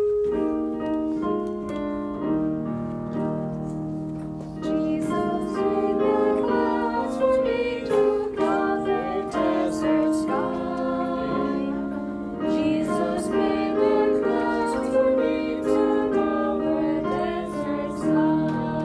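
A children's Sabbath school song sung by a woman's voice with piano accompaniment.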